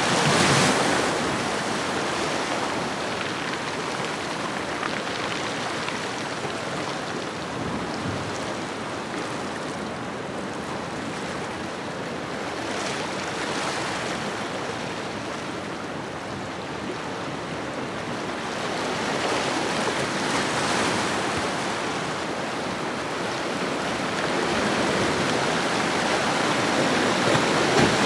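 Ocean surf washing onto a shore: a steady rush of breaking waves that swells and ebbs slowly, louder just after the start, again around the middle, and building toward the end.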